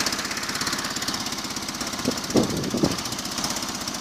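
Oka car's two-cylinder petrol engine running at a fast, even beat in a homemade tractor. Two brief louder sounds come about halfway through.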